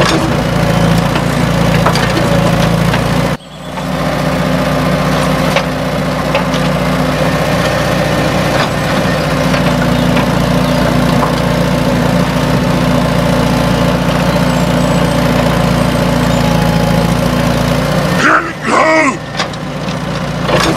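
Tractor engine idling steadily. It cuts out for a moment about three and a half seconds in, then carries on.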